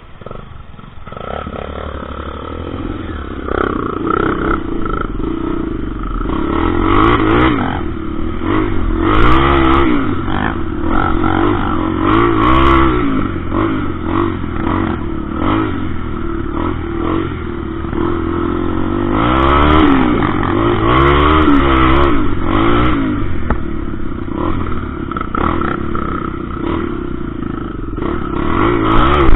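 Motorcycle engine running and revving up and down repeatedly, its pitch rising and falling over and over.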